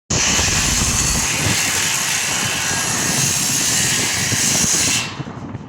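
Stick-welding arc crackling and hissing steadily as it burns into steel. It stops abruptly about five seconds in when the arc is broken.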